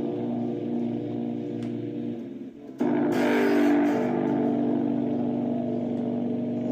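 Freshly restrung Epiphone SG Junior electric guitar strummed, its chord ringing out and then struck again sharply about three seconds in and left to ring. The strings are not yet tuned.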